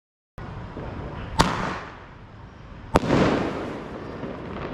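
Sky shot fireworks bursting overhead: two sharp bangs about a second and a half apart, each trailing off in a fading hiss of noise.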